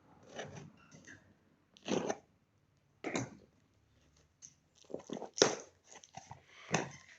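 A package being torn open and handled, with crinkling and tearing of the wrapping coming in short irregular bursts. The loudest rip is about five and a half seconds in.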